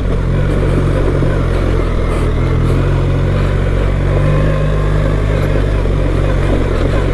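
BMW R 1300 GS motorcycle's boxer-twin engine running steadily at low revs under way, with rough road and wind noise over it.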